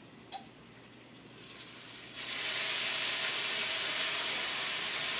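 Cabbage, onions and bacon sizzling and steaming in a frying pan. The sizzle is muffled under the glass lid, then turns loud and hissing a little over two seconds in as the lid is lifted.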